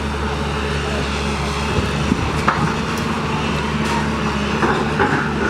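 A motor engine running steadily with a low hum, with a few short clicks and knocks over it, about two and a half seconds in and again near the end.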